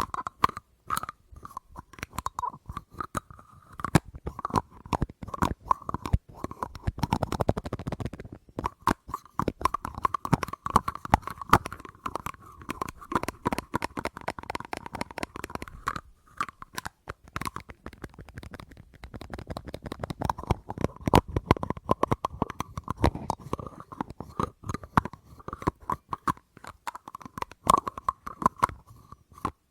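Fast, close tapping on a hard object that rings with a steady mid-pitched tone under the taps, growing denser and fuller in two stretches.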